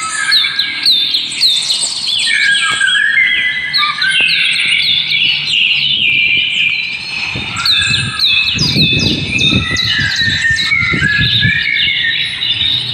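Many small birds chirping at once, a dense stream of short, quick downward-sweeping calls overlapping without a break. A low noise comes in under them for a few seconds past the middle.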